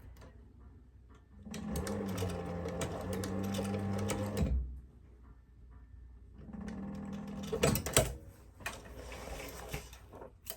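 Techsew 2900 leather and cobbler sewing machine with a clutch-driven servo motor stitching in two short runs, about three seconds and then about a second and a half, with a few sharp knocks near the end of the second run. This is a back tack at the end of a seam, sewn over again because the machine has no reverse.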